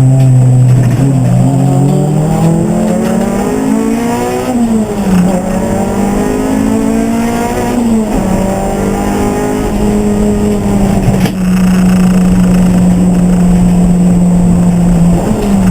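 Race car engine under hard acceleration: its pitch climbs, drops sharply with gear changes about five and eight seconds in, then holds level for several seconds before falling near the end as the car lifts or shifts down.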